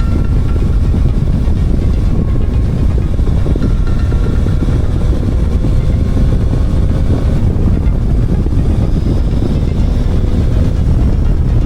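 Motorcycle riding at speed: a steady engine drone under a heavy low wind rumble on the camera microphone.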